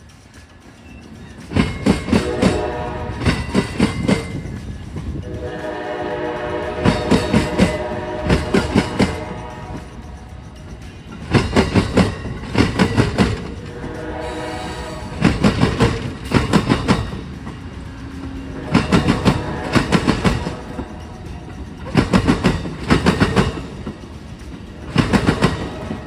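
Amtrak Silver Star passenger train rolling over a railroad diamond crossing: its wheels clatter across the crossing in quick groups of clicks about every three and a half seconds as each car's wheelsets pass. A train horn sounds a few times, most strongly around a quarter of the way in.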